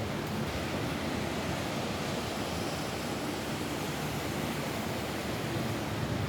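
Steady, even downpour of rain falling on a roof, a continuous hiss with no separate drops or thunder standing out.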